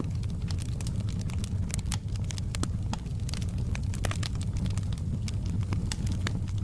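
Fireplace wood fire crackling, with frequent small, irregular pops and snaps over a steady low rumble of the flames.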